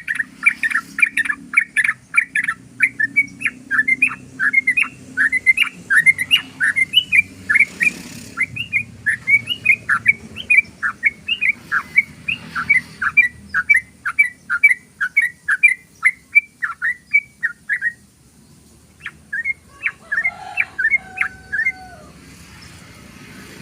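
Yellow-vented bulbul (trucukan) singing a long, rapid run of short, sharp notes, about two a second, for some eighteen seconds. After a brief break a few more notes follow, together with a lower, drawn-out call.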